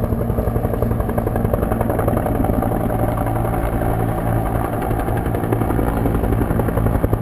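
AH-1 Cobra attack helicopter's turbine engine and main rotor running steadily in flight, heard on board, with a fast, even rotor beat.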